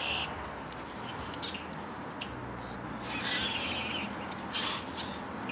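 A bird chirping in short high-pitched phrases, the clearest a little over three seconds in, over faint steady background noise.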